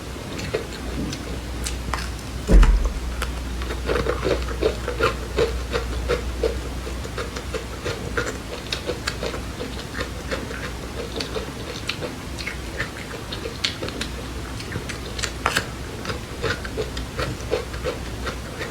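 Close-up chewing of crunchy seeds: a dense run of small irregular crunching clicks, with one louder thump about two and a half seconds in.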